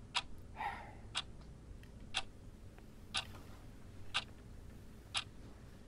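A clock ticking, one sharp tick each second.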